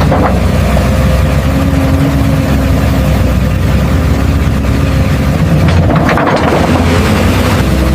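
Steady, loud engine-like running noise from remote-control construction vehicles, with a slight swell about six seconds in.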